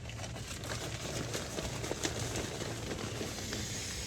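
Nylon pump sack being worked to inflate a Nemo Tensor sleeping pad: steady fabric rustling and crinkling with many small crackles, and air rushing.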